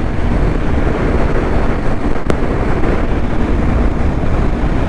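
Heavy wind rushing over the microphone of a Honda Hornet motorcycle riding at highway speed, with engine and road noise underneath. A single sharp click about two seconds in.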